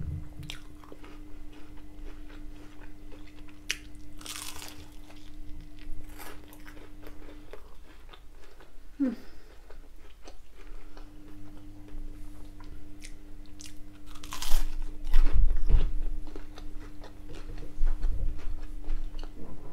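Close-up chewing and crunching of crisp battered cod bites, with repeated short crackles of fried batter between bites.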